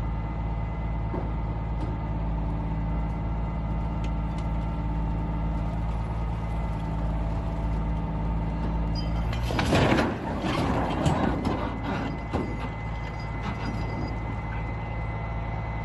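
Heavy truck engine idling steadily. About ten seconds in, a loud burst of noise with rattling lasts two or three seconds.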